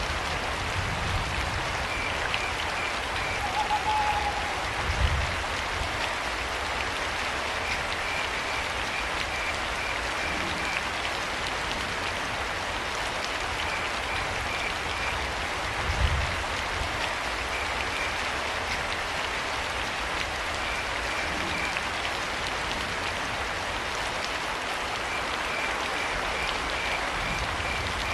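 Steady rain falling, with crickets chirping in short trains of pulses every few seconds. There is one brief higher call about four seconds in, and two low thumps, at about five and about sixteen seconds.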